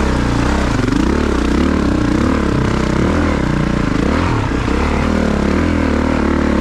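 A Honda CRF450RX's single-cylinder four-stroke dirt-bike engine revving up and down again and again as the bike struggles through deep mud.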